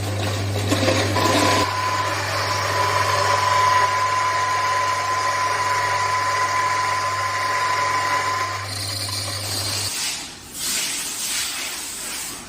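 Small turmeric powder milling machine running: a steady motor hum under a grinding noise with a high whine. The whine drops out near 9 seconds and the hum stops about 10 seconds in, leaving a shorter noisy stretch near the end.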